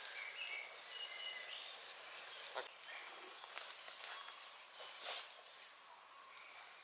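Faint rural outdoor ambience: a few short bird chirps in the first second or so, a steady high insect trill like a cricket, and a few soft clicks.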